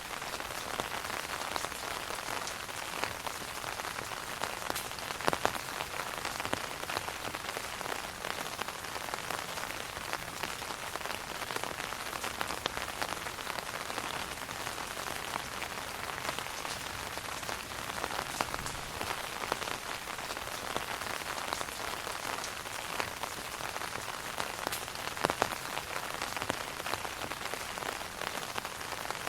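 Steady rain falling on an umbrella canopy, many individual drops ticking on the fabric, with a few heavier drops striking louder about five seconds in and near the end.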